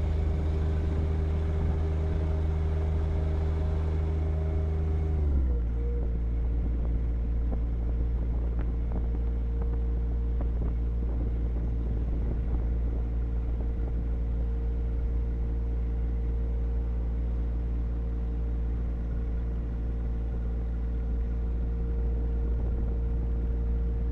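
John Deere 1025R compact tractor's three-cylinder diesel engine running steadily. About five seconds in, its speed drops quickly and it carries on running at the lower speed, with a steady whine alongside.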